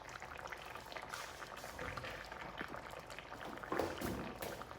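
Food simmering in a little water in a pan over a high flame, with a fine steady crackle of bubbling and sizzling. A brief louder knock or scrape comes about four seconds in.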